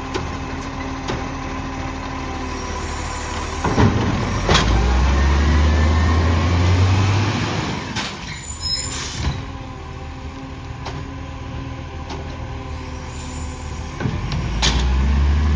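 Garbage truck running, its diesel engine rising to a deep, louder note about four seconds in and again near the end, with several clunks and knocks and a short hiss of air in between.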